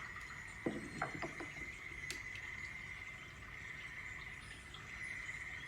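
Steady high-pitched insect chirring, with a few soft knocks about a second in.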